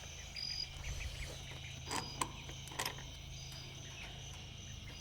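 Crickets chirping in short high notes every second or two, with a few faint clicks and knocks near the middle.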